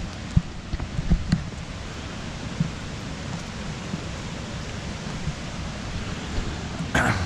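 Steady rushing roar of a river waterfall. Wind buffets the microphone in a few low thumps during the first second or so, and there is a brief rustling burst near the end.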